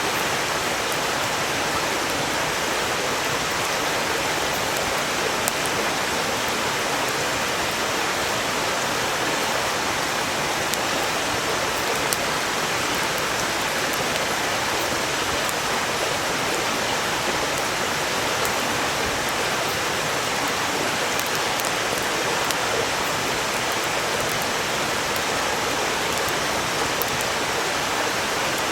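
Steady rushing of a valley stream flowing over rocks, with a few faint sharp crackles of burning firewood now and then.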